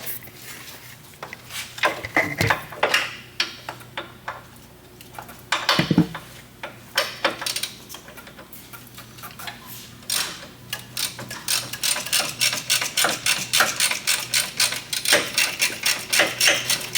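Hand tools clicking and clanking against metal while working on the truck's engine bay, with scattered knocks early on and a run of quick, even clicks about three to four a second in the second half.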